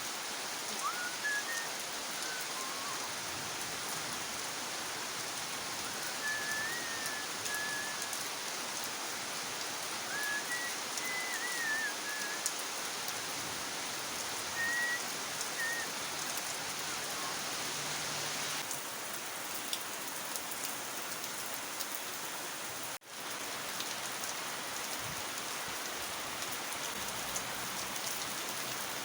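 Heavy rain falling steadily, a dense even hiss of drops. A few faint, short high chirps sound through it in the first half, and the sound cuts out for an instant near the end.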